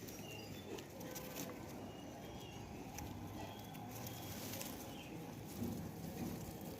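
Faint, short, high-pitched bird chirps scattered through, with a few light clicks.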